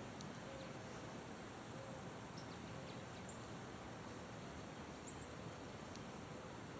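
Steady high-pitched insect chorus, crickets or similar, with a few faint short high chirps scattered through it.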